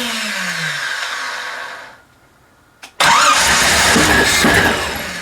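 Chevrolet ZZ4 350 small-block V8 with Edelbrock Pro-Flo XT fuel injection being cranked on its first start without catching. The sound falls in pitch and dies away about two seconds in, and after a click it is cranked again about three seconds in. The engine seems close to starting, but the owners take it to be not getting fuel.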